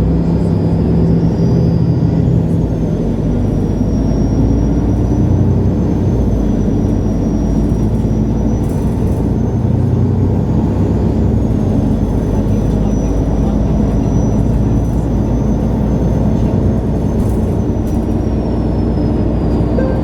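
MAN Lion's City G articulated diesel city bus driving between stops, its engine running steadily, with a faint high whine that rises and falls.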